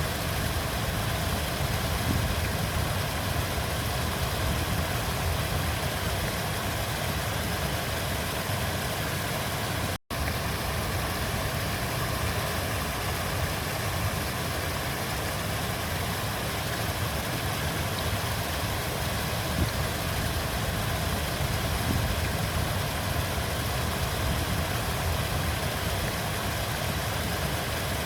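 Steady rushing flow of a river, with a strong low rumble under the hiss of the water. The sound cuts out abruptly for a split second about ten seconds in, then resumes unchanged.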